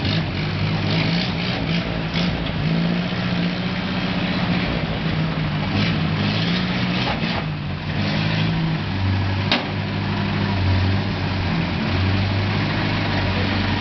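Vehicle engine running at low speed. Around eight or nine seconds in its note gives way to a lower, deeper one, and there is a single sharp click about nine and a half seconds in.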